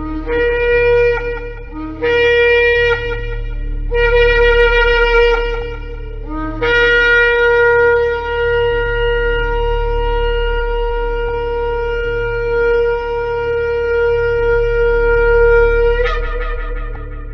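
Shofar blasts: three short blasts of a second or two each, then one long held blast that breaks up in pitch just before it ends. Each blast starts on a lower note and jumps up to the main tone. A steady low hum runs underneath.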